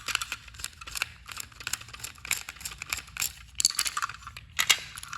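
Rapid, irregular plastic clicks and rattles of a battery-powered toy train engine being handled and its battery compartment opened.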